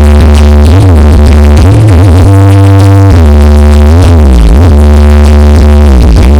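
Loud electronic dance music with a heavy, continuous bass whose notes slide up and down in pitch, blasted from a 'sound horeg' sound system.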